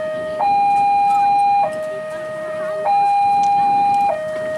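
Railway level-crossing warning alarm sounding, an electronic two-tone signal that alternates between a higher and a lower steady tone about every second and a quarter.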